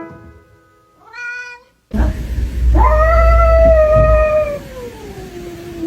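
A cat's long, drawn-out meow that holds its pitch and then slides down toward the end, over a low rumble. A piano note fades out at the start.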